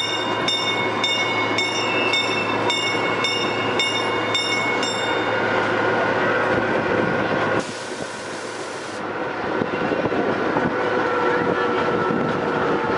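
Miniature park train running steadily. A bell clangs in an even rhythm, about three strokes a second, for the first five seconds.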